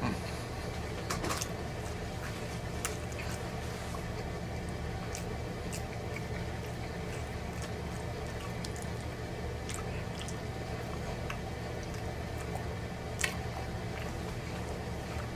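Close-up wet chewing and mouth sounds of a man eating a double cheeseburger, with many small scattered clicks and one sharper click about 13 seconds in, over a steady low hum.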